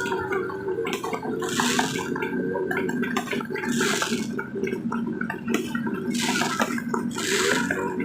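Fireworks going off: dense crackling pops, with a hiss that swells and fades four times, every one to two seconds.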